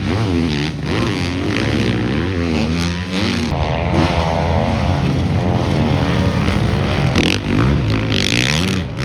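Motocross bikes racing past on the track, their engines revving hard, the pitch rising and falling again and again with throttle and gear changes, one bike loudest about four seconds in.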